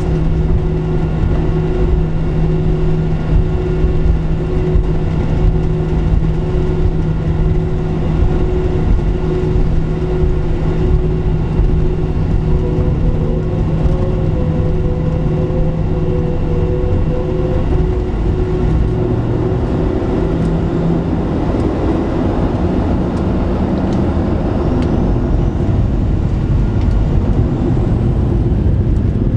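Boeing 737-700's CFM56 jet engines running, heard from inside the passenger cabin: a loud, steady rush carrying several steady tones, which fade and shift in pitch about 20 seconds in.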